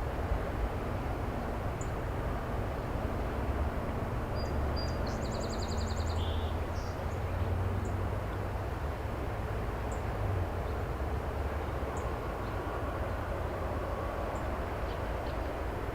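Steady low rumble of an excavator working, with bird calls over it: a short trilled song about five seconds in and single high chirps scattered through.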